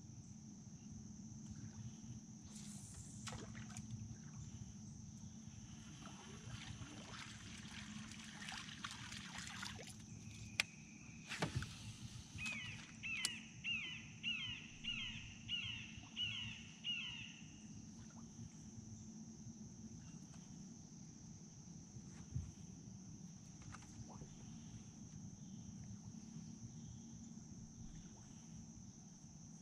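Faint riverside ambience with a steady high insect drone. A few sharp clicks come in the first half. Then, about twelve seconds in, a bird calls a quick run of about ten down-slurred notes, roughly two a second, lasting about five seconds.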